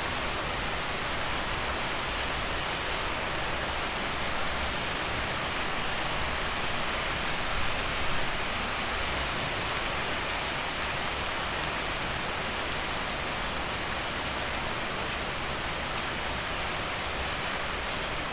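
Heavy rain falling steadily, an even dense hiss of drops on surfaces.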